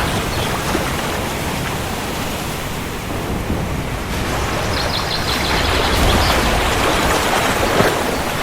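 Steady rain with a low rumble of thunder swelling about two-thirds of the way through.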